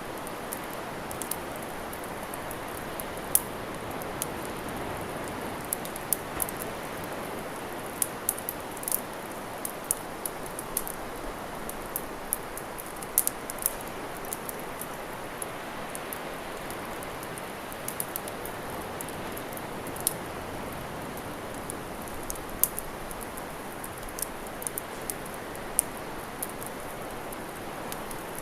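Wood fire crackling with irregular sharp pops, several a few seconds apart, over a steady wash of sea waves.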